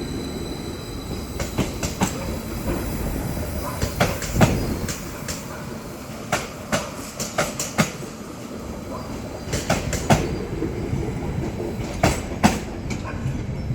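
Transport for Wales Class 756 train pulling out of the platform: a steady rumble under a run of irregular sharp clicks and clunks, often in pairs, as its wheels pass over rail joints and points.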